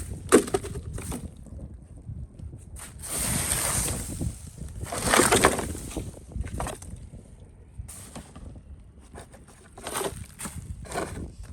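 Handling and tool noises of phone repair work: scattered clicks and taps, with two longer rubbing sounds, one about three seconds in and a stronger one about five seconds in.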